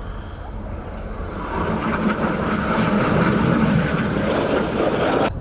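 Red Arrows BAE Hawk T1 jets flying past, the jet roar swelling to loud about a second and a half in, then cutting off suddenly near the end.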